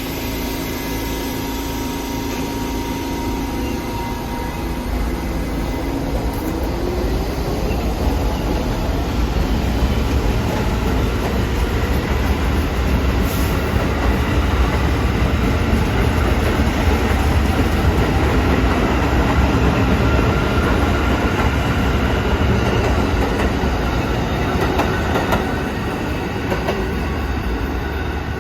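New York City Subway train running through the station, with a heavy rumble of steel wheels on the rails. About four seconds in, a traction-motor whine starts rising in pitch, and faint high wheel squeal runs through. The sound swells through the middle and eases slightly near the end.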